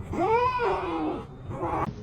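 A cat meowing once: one drawn-out call that rises and then falls in pitch, about a second long.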